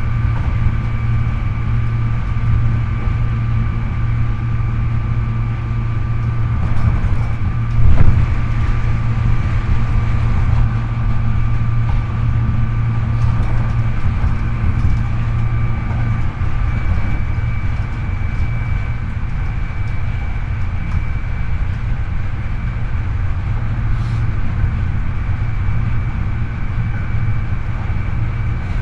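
Hankyu 8300 series electric train heard from inside the car over its bogie, running at a steady speed: a steady rumble of wheels on rail with a level motor whine that holds one pitch. A brief loud thump about eight seconds in, and a slight change in the whine partway through.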